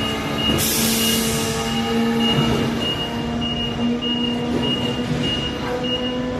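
Forklift truck running with a steady mechanical whine. A high tone beeps on and off throughout, and a brief hiss comes about half a second in.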